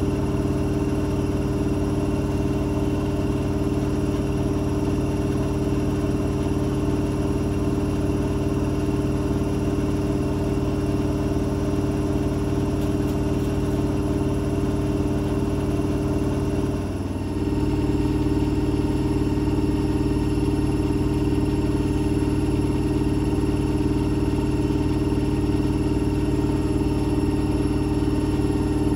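Blomberg front-loading washing machine spinning at speed: a steady motor hum and drum rumble with a brief dip about two-thirds of the way through, after which the hum comes back slightly stronger and a little changed in tone.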